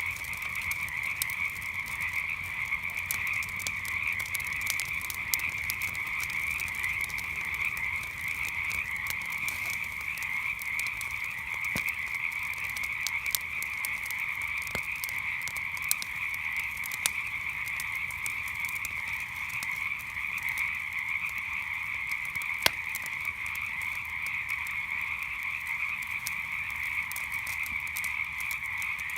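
A dense chorus of frogs calling without a break, with scattered sharp pops and crackles from a wood campfire; a few pops stand out louder, the loudest a little past the middle.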